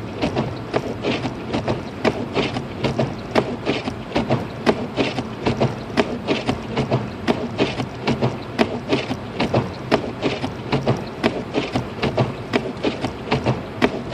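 Inside a car's cabin while driving through a snowstorm: a steady engine and road hum with rapid, irregular clicking and ticking several times a second.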